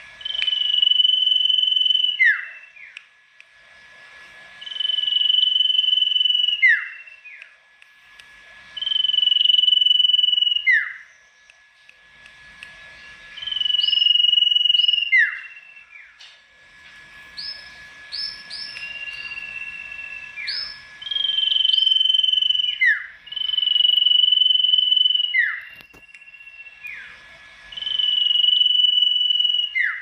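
A sirtu songbird singing its loud whistled song. Each phrase is a high held whistle ending in a quick downward sweep, repeated about every four seconds, with a burst of short rising notes a little past the middle.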